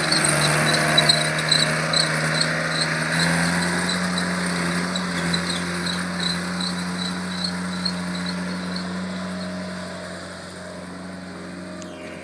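Skid steer loader engine running under throttle, its pitch stepping up about three seconds in, with a regular high ticking about three times a second for the first several seconds. The sound grows fainter near the end.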